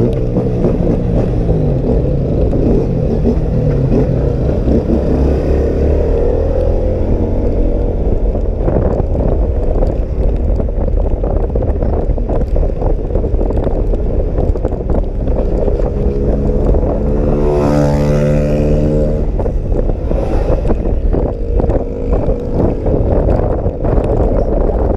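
Wind rushing over the rider's microphone on top of a scooter engine's steady drone while riding in the rain. About 18 seconds in, another engine with a clear pitch passes close by and then fades.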